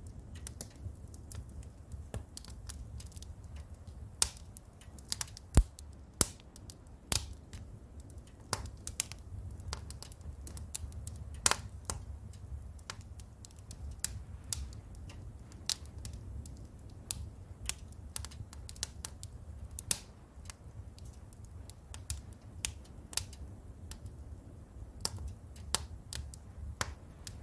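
Wood fire in a fireplace crackling, with quick irregular ticks and now and then a louder sharp pop, over a steady low rumble.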